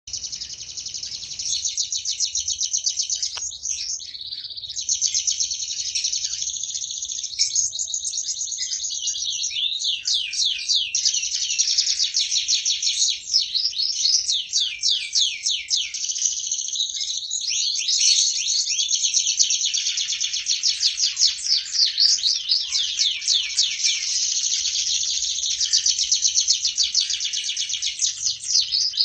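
Domestic canary singing a long, unbroken song of rapid high trills and warbles, in full song with hardly a pause.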